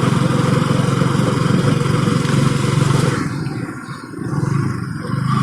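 Motorcycle engine running while riding, with a steady rush of wind noise over it. Around four seconds in the engine and wind go quieter for about a second, then pick up again.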